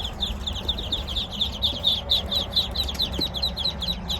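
Dozens of day-old Muscovy ducklings peeping together in a dense, constant stream of short, high, downward-sliding peeps.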